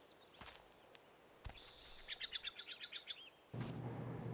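A songbird singing faintly: a high held note, then a quick trill of about eight notes, with a couple of faint clicks before it. A low steady room hum comes in near the end.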